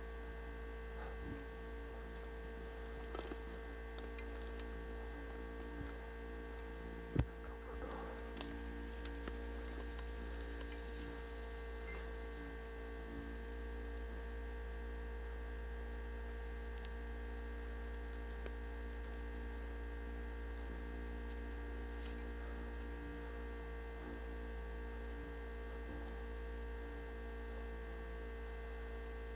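A steady electrical hum, with a few faint clicks and two sharper knocks about seven and eight and a half seconds in.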